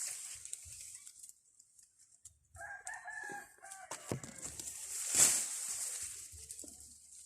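A bird calling from a tree: a short phrase of a few stepped notes about two and a half seconds in. A brief loud hiss follows a couple of seconds later.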